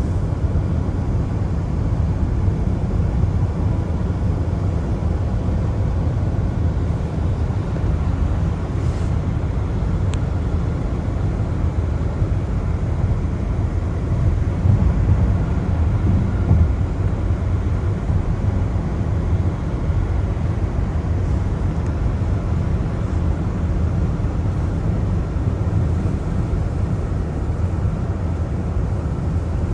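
Car driving on a wet road in the rain: a steady low rumble of road and tyre noise.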